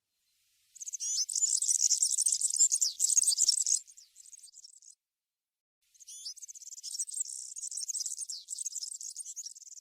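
European serin singing its wild-type (campero) song: rapid, high-pitched, jingling twitter in two long phrases, one from about a second in to nearly four seconds, the next starting about six seconds in.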